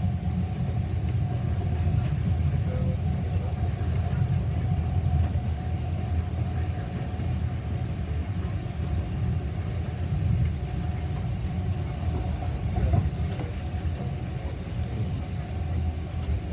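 Metra commuter train running, heard from on board: a steady low rumble with a faint steady hum above it.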